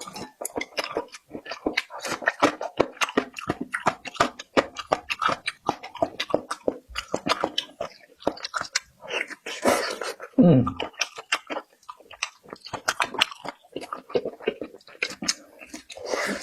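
Close-miked chewing and biting of food: a steady, rapid run of short smacks and crunches. About ten seconds in there is a brief low throat sound that falls in pitch.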